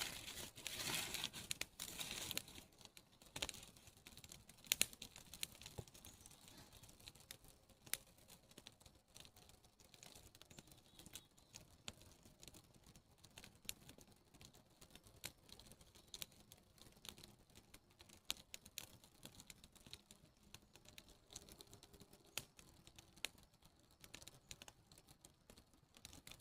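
Campfire of birch bark and partly green, rain-damp wood burning with a light crackle and sharp irregular pops, denser and louder in the first couple of seconds.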